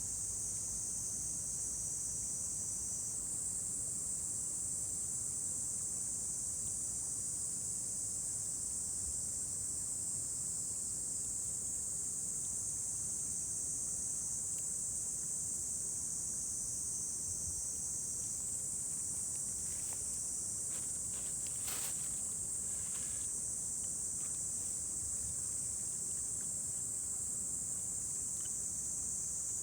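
A steady, high-pitched chorus of insects chirring without a break. About twenty to twenty-three seconds in, a few faint crackles come from the wood fire.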